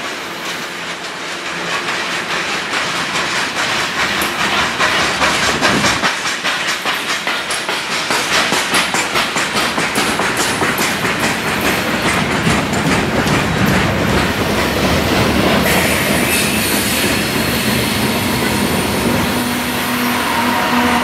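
Loaded coal hopper cars rolling past close by, their wheels clattering rhythmically over rail joints, with a steady rumbling roar. Near the end the steady hum of a mid-train CSX diesel locomotive (a distributed-power unit) comes in.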